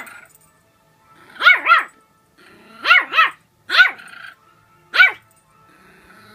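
A dog barking at her own reflection in a mirror: six short, pitched barks, some in quick pairs, with pauses between.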